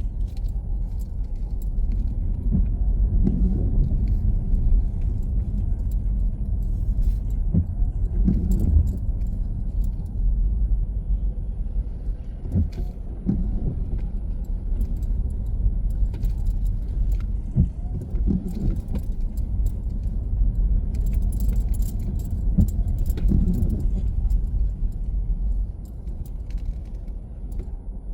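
Car driving through city streets: a steady low rumble of engine and road, with scattered light clicks and jingling rattles. It grows quieter near the end as the car slows.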